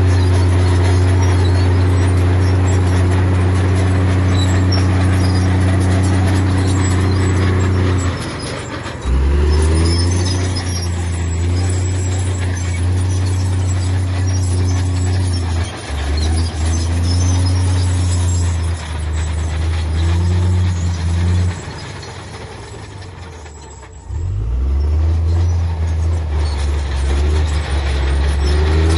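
Heavy diesel engine of earthmoving machinery working hard at a steady pitch, then dropping off and revving back up three times, with a quieter lull of a couple of seconds before the last rev-up.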